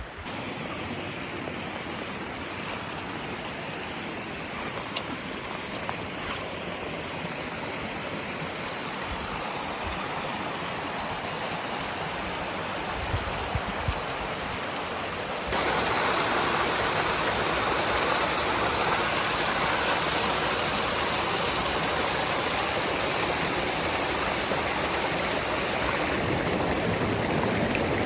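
Creek water rushing steadily, louder from about halfway through.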